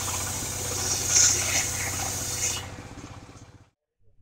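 Engine-driven circular sawmill running, a steady engine pulse under a broad hiss from the spinning blade; the sound dulls and fades out about three and a half seconds in.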